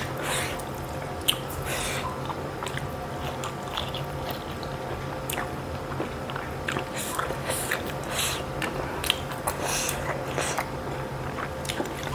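A person chewing and biting food close to the microphone, with many short wet clicks from the mouth. A faint steady hum runs underneath.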